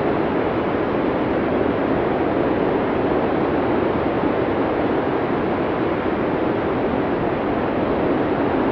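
Steady blizzard wind: a dense, even rush of noise, heaviest in the low-middle range, with no distinct gusts, whistles or breaks.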